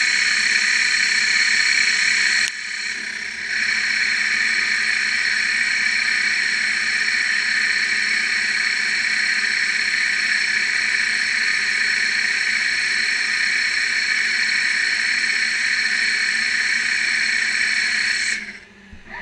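CNC lathe running, a steady mechanical whir with a high whine, briefly quieter about two and a half seconds in and cutting off near the end.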